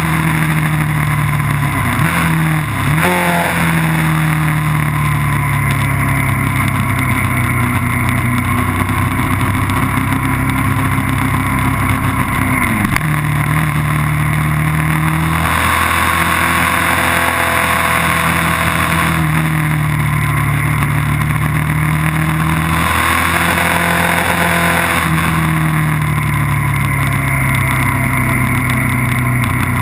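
Engine of a vehicle lapping a race track at speed, running continuously; its pitch climbs and falls repeatedly with throttle and gear changes, with a sharp dip about two to three seconds in and a drop near thirteen seconds, over a steady rush of wind noise.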